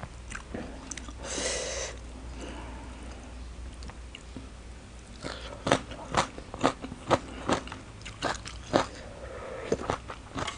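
Close-miked chewing of crunchy shredded green mango salad. A short rustle comes about a second and a half in, then it goes quieter, and from about halfway through there are crisp crunches about twice a second.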